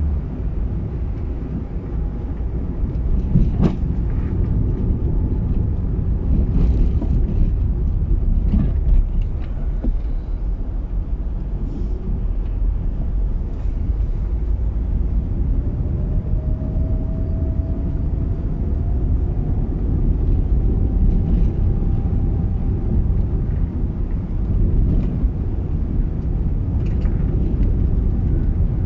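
Car moving slowly along a road: a steady low rumble of engine and tyres, with a few light knocks and a faint tone rising slightly in pitch about halfway through.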